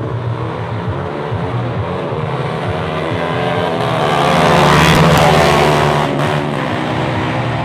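Motorcycle engine running at high revs under hard acceleration on a dirt drag strip, growing louder to a peak about five seconds in and then easing off slightly.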